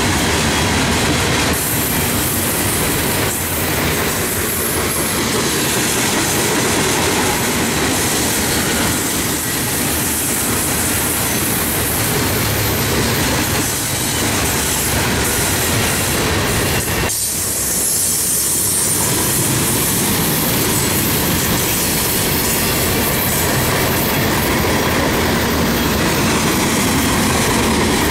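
Freight cars rolling past at trackside, their steel wheels running on the rail in a loud, continuous rumble that dips briefly about seventeen seconds in.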